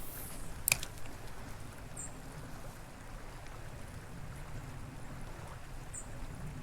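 Small creek's water running steadily, with a sharp click about a second in and two short high chirps later on.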